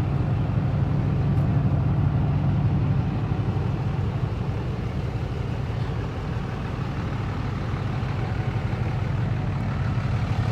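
Truck engine running steadily at idle, a constant low drone.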